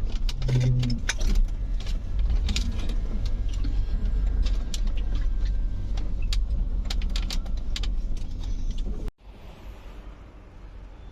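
Low steady rumble with many sharp clicks and rattles, of a moving vehicle. It cuts off abruptly about nine seconds in, leaving a faint hiss.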